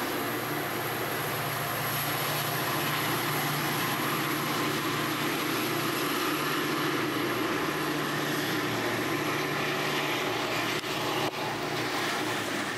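Metra commuter train moving through the station: a steady low diesel drone under a continuous hiss of rolling noise, which drops off abruptly at the end.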